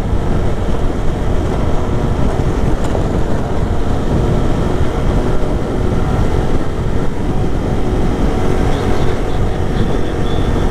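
Lifan KP motorcycle engine running at a steady cruising speed, partly buried under heavy wind rush on the helmet-mounted microphone.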